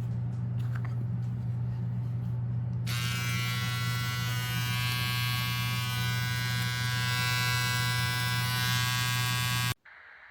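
Electric shaver running with a steady motor buzz. About three seconds in, a harsher, high-pitched rasp joins the buzz. The shaver switches off abruptly near the end.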